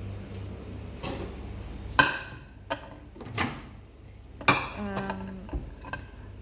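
A plate clinking and knocking several times as it is handled, the loudest knock about two seconds in, and one followed by a short ringing note around four and a half seconds in.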